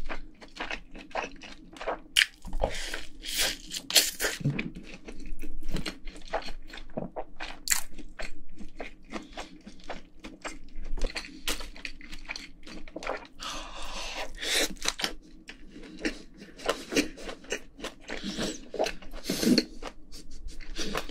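Close-miked chewing of a person eating, a dense string of short clicks and crunches from the mouth.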